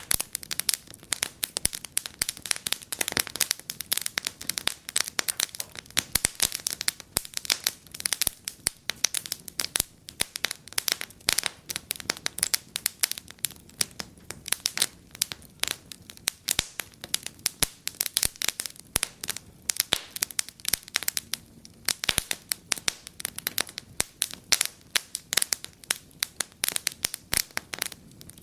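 Wood fire burning in a fireplace, crackling steadily with a dense, irregular run of sharp snaps and louder pops.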